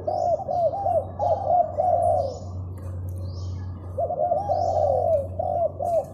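A caged dove cooing: a rapid run of short rising-and-falling notes in two bouts, with a pause of about a second and a half between them. A steady low hum sits underneath, and small birds chirp faintly.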